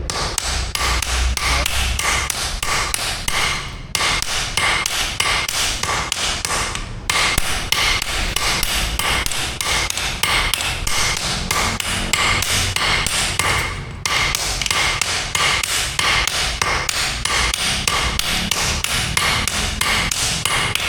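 Rapid, evenly spaced hammer blows on steel at an anvil, each strike ringing with a metallic tone, as an axe head is forged. The hammering pauses briefly three times, about 4, 7 and 14 seconds in.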